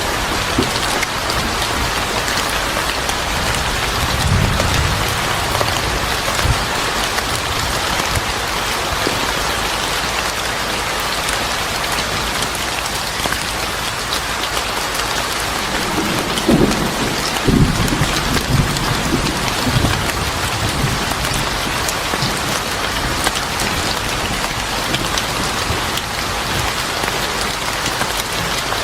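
Steady heavy rain falling on a surface, with low rumbles about four seconds in and again from about sixteen to twenty seconds.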